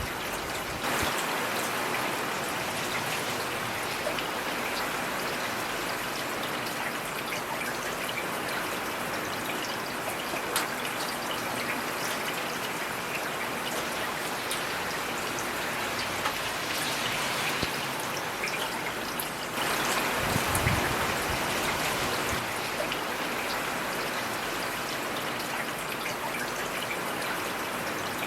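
Heavy rain falling steadily, a dense even patter with scattered louder drops. The rain grows a little louder about twenty seconds in, with a brief low rumble.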